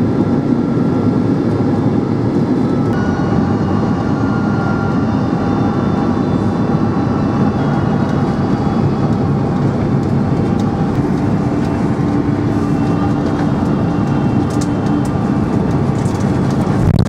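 Steady jet airliner cabin noise inside a Boeing 767-400ER on final approach: engine and airflow noise with faint steady engine tones running through it.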